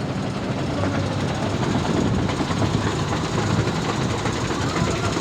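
Heavy truck engine idling, a steady low running sound with no break.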